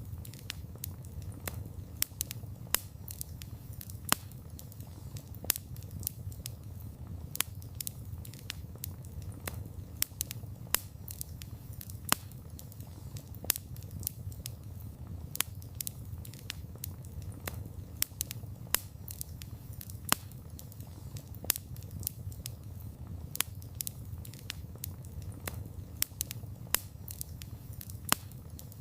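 Campfire of burning wood crackling, with a steady low rumble of the flames and irregular sharp pops, several of them louder than the rest.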